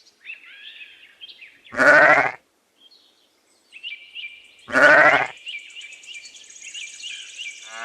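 A lamb bleating twice, each bleat about half a second long with a wavering pitch, the two about three seconds apart. Faint high chirping runs underneath.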